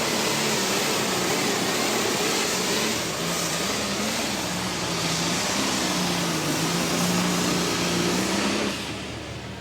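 Diesel super stock pulling tractor running at full throttle under load down the pulling track, its turbocharged engine howling with the pitch wavering up and down as it works against the sled. The sound drops off sharply near the end as the engine comes off the throttle.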